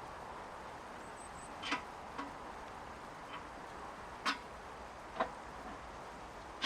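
Steady rushing of rain and a mountain river, with about half a dozen short, sharp clicks or taps scattered through it.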